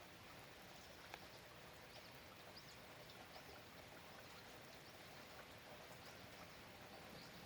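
Faint, steady rain falling, with scattered drops pattering and one sharper drop about a second in.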